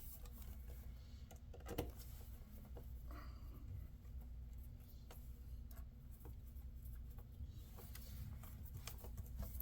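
Faint clicks and scratches of a screwdriver starting small screws into a laptop's bottom panel, over a steady low hum.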